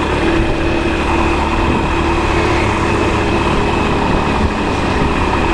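A motor vehicle's engine running steadily, heard close, as a constant low drone with a steady hum over it.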